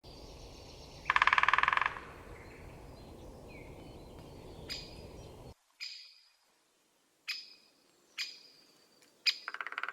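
Great spotted woodpecker calling: about five short, sharp single calls spaced a second or so apart, with a brief fast rattle about a second in and another near the end. A low outdoor rumble underlies the first half and cuts off abruptly about halfway through.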